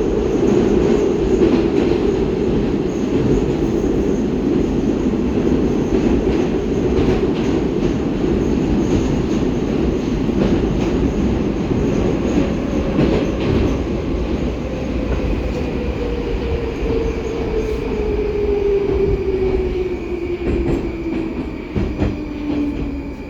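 Baltiets metro train heard from inside the car, running through a tunnel: a steady rumble of wheels on rail. Through the second half a traction-motor whine falls in pitch as the train slows for the next station.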